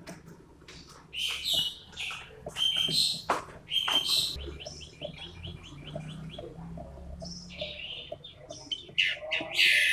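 A toed matahari bird singing loud, sharp call phrases, with a fast run of short repeated notes a little after the middle and a louder phrase near the end.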